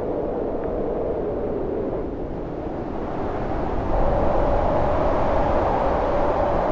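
Storm wind howling: a steady rush with a hollow mid-pitched howl that wavers, eases off slightly and then gusts up louder and a little higher about four seconds in.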